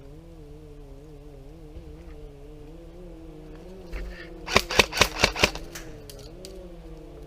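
Five sharp airsoft gun shots in quick succession, about a fifth of a second apart, a little past the middle, over a steady low wavering hum.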